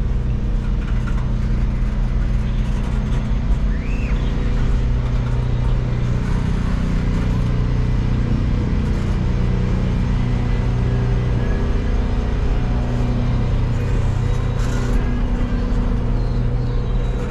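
Decorated boxcars of a train rolling slowly past, a steady low rumble and hum with no breaks.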